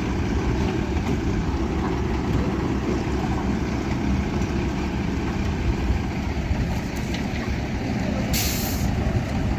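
Heavy truck engine running with a steady low rumble, and a short air-brake hiss about eight and a half seconds in.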